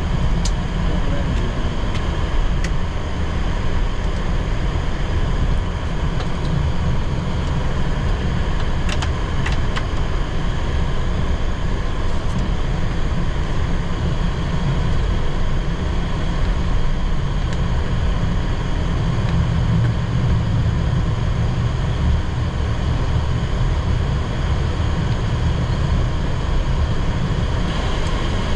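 Steady cockpit noise of a Boeing 737-800 rolling after landing: a low rumble with a constant hiss and hum from the engines at idle and the air-conditioning, and a couple of faint clicks about nine seconds in.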